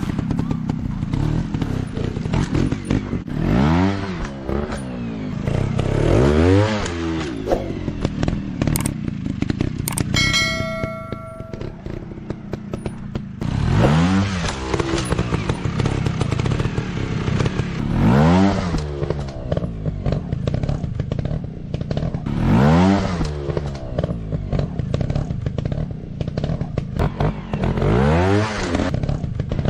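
Motorcycle engine revving over and over, its pitch rising and falling every few seconds over a steady rough running note. A brief ringing tone sounds about a third of the way in.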